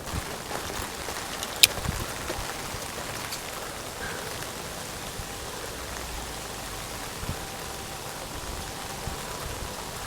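Steady rain falling, with scattered drop ticks and one sharp tick about a second and a half in.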